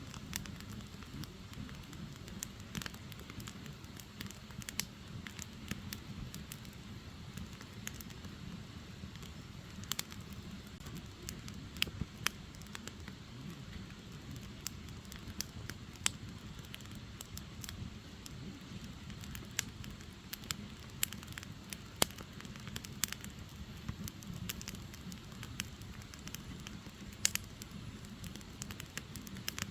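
Firewood burning in an open fire: a steady low rumble of flames with frequent small crackles and occasional louder pops.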